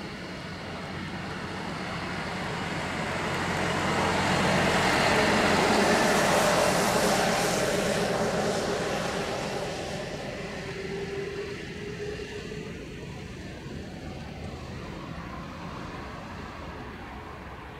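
Airbus A330-243F freighter's Rolls-Royce Trent 700 jet engines going past, swelling to a peak about six seconds in and then fading away. A faint steady whine stays as it recedes.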